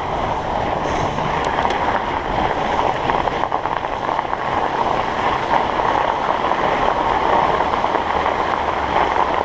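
Studded 45NRTH Dillinger 5 fat-bike tyres rolling over a winter trail: a steady rushing hum while riding.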